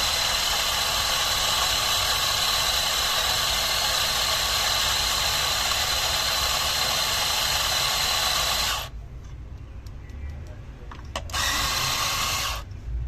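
Electric coffee grinder running steadily with a high motor whine for about nine seconds, then stopping. A second short burst of about a second follows near the end.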